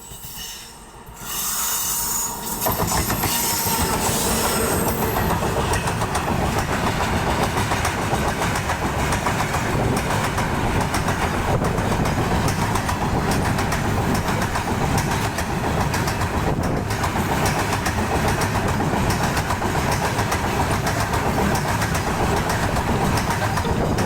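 A train passing close by, its wheels clattering steadily over the rails, rising to full loudness about two seconds in.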